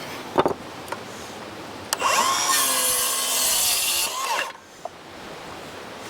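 A power saw running for about two and a half seconds, spinning up, cutting wood and winding down. A sharp knock comes just before it.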